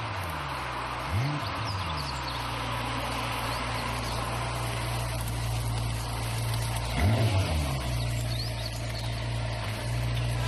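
Ferrari F40's twin-turbo V8 running steadily at low revs, blipped twice: a short rise and fall in revs about a second in and again about seven seconds in.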